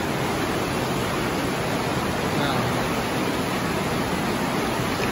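Fast river water rushing steadily through a rock tunnel at the top of a waterfall: an even, unbroken wash of water noise.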